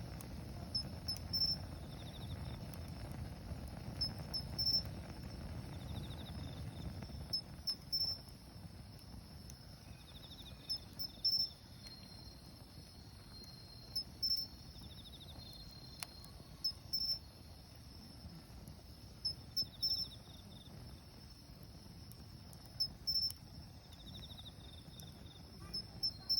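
Autumn crickets chirping at night: short high chirps in quick groups, with another insect's brief pulsed trill every few seconds. A low hiss from a small wood fire fades out over the first several seconds.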